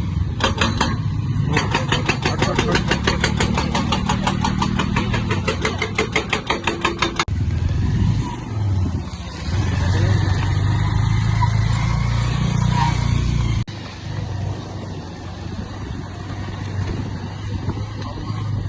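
Motorcycle engine running on the move, with a fast, regular rattling clatter for the first seven seconds that stops abruptly, then a steady low engine hum.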